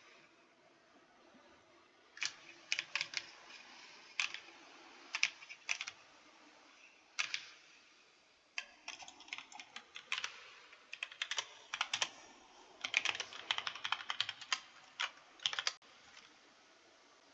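Typing on a computer keyboard: sharp key clicks in uneven runs, sparse at first and quicker through the second half, stopping about a second before the end.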